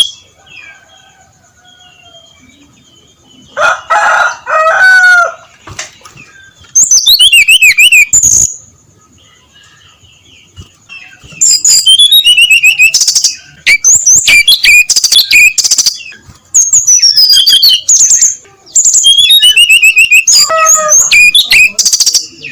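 Brown-chested jungle flycatcher singing loudly in bursts of rapid, twisting high notes, a phrase every second or two with short pauses between. A lower warbled phrase comes about four seconds in, and a faint steady high tone runs beneath.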